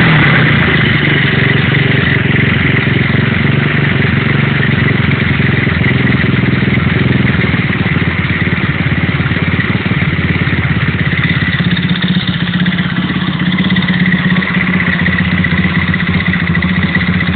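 A 1975 Simson S50B moped's 50cc single-cylinder four-stroke Honda-copy engine idling steadily.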